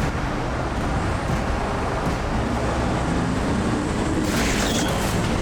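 Heavy tow truck's diesel engine working hard under load as it pulls a semi uphill, steady and loud. A short hiss comes about four seconds in.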